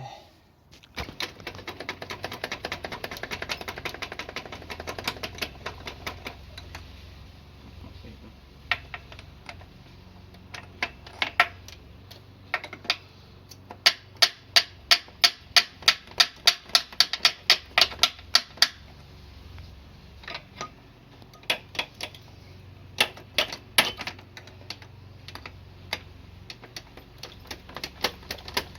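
Socket ratchet clicking in bursts: a fast run of clicks over the first few seconds, scattered strokes, then a steady run at about four clicks a second in the middle, as fasteners on the motorcycle engine are undone.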